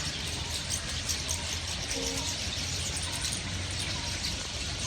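Many small birds chirping and twittering, a scatter of short high calls over a steady low background rumble. A brief human voice sound about two seconds in.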